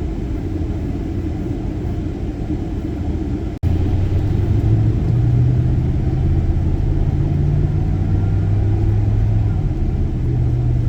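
Car driving on the road, heard from inside the cabin: steady low rumble of engine and tyres. A little over three seconds in, the sound cuts out for an instant and comes back louder, with a steady low engine hum.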